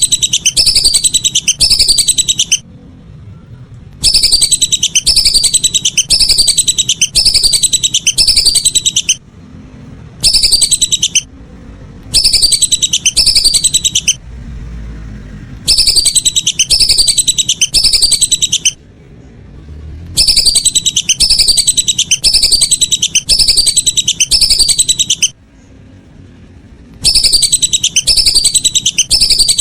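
Lesser whistling ducks (belibis) calling: loud, high whistled notes that each fall in pitch, about two a second, in bursts of a few seconds separated by short pauses.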